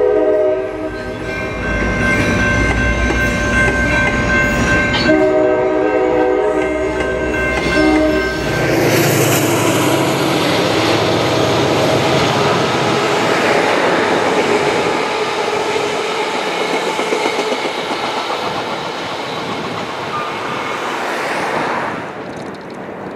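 A commuter train's air horn blows twice over the rumble of bilevel coaches rolling past. The first blast ends just under a second in; the second starts about five seconds in and lasts about three seconds. About nine seconds in, the sound changes to the steady rushing of a Coaster diesel locomotive and its train running by on the rails, easing off toward the end.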